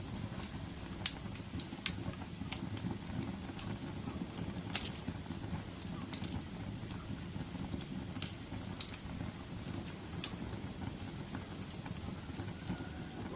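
Wood fire burning with a steady low rumble and irregular sharp crackles and pops. The loudest pop comes about a second in and another just before the five-second mark.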